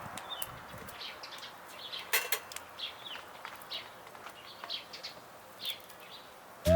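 Small birds chirping in short, scattered calls, with a single sharp click about two seconds in.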